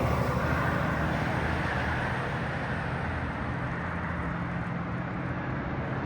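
Mack MRU front loader garbage truck driving away, its engine running steadily and fading gradually as it pulls off.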